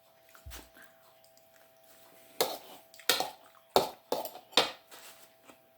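A spoon clicking and clinking against a bowl of soup, about five short sharp knocks spread over a couple of seconds, with a faint steady hum beneath.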